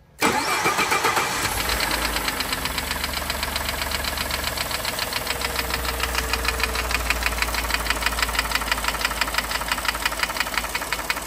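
Ford 3.5L first-generation EcoBoost twin-turbo V6 idling with a loud, rapid, even tapping from the valve train at cylinder one. The mechanic takes it for a valve-train fault, not a normal timing-chain noise, even though this engine has mechanical bucket tappets and no lifters or followers to fail. The sound cuts in suddenly just after the start.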